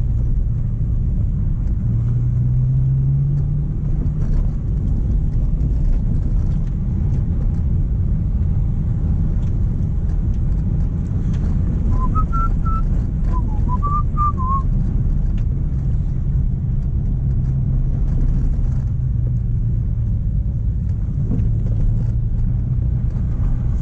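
Mk1 Renault Clio on the move, a steady low engine and road rumble, the engine note rising briefly a couple of seconds in. About halfway through, a short whistle wavers up and down for a couple of seconds.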